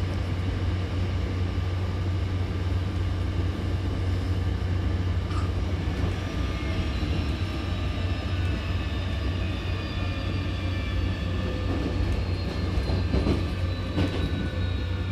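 Hankyu Kyoto Line electric train heard from inside the car: a steady low rumble of wheels and running gear, with the traction motors' whine gliding down in pitch as the train slows for the station. A couple of knocks near the end.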